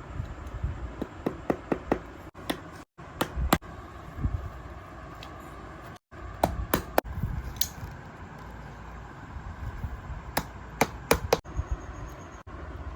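Irregular groups of sharp taps and clicks, like handwork with tools, over a steady low hum, broken by several abrupt cuts.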